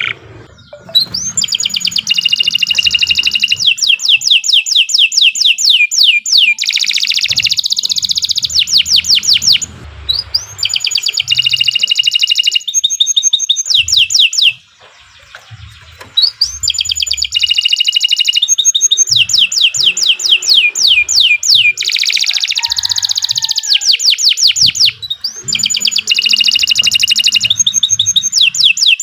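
Domestic canary singing long, rapid trills and rolls: high, fast-repeating notes in phrases several seconds long, with brief pauses between phrases.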